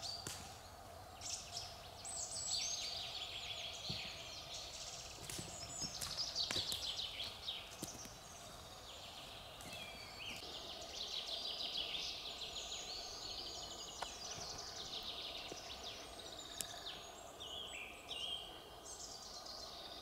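Songbirds singing, several at once, with quick chirps and trills overlapping; faint.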